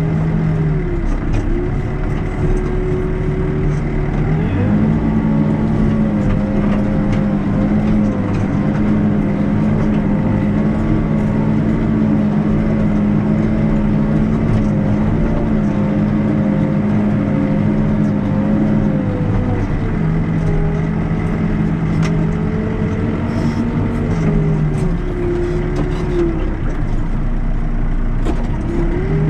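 Backhoe's diesel engine running with its revs changing: the throttle comes up a few seconds in and holds steady for about fifteen seconds, then drops back, and rises again at the very end.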